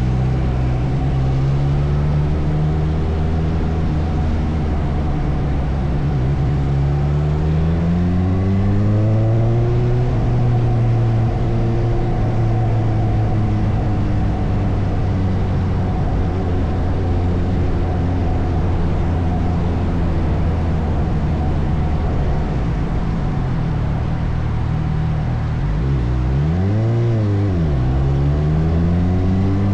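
Suzuki motorcycle engine heard from the rider's seat, running through city traffic. It picks up speed about a quarter of the way in, cruises at a fairly even pitch, then gives a quick rev that rises and drops sharply near the end before accelerating again.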